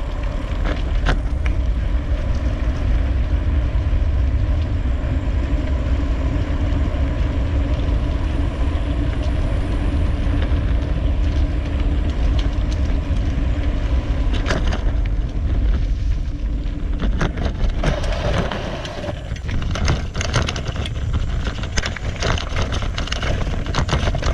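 Mountain-bike ride heard from a camera carried on the bike or rider: a loud, steady low rumble of wind and tyres on the trail, with frequent rattling clicks that grow busier in the second half.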